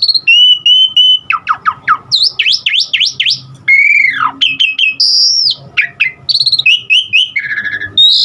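Asian pied starling (jalak suren) singing a loud, varied song: a held whistle, a quick run of falling whistled sweeps, arching notes and a high whistle, broken up by rapid chattering and harsh squawks, with mimicked calls worked in.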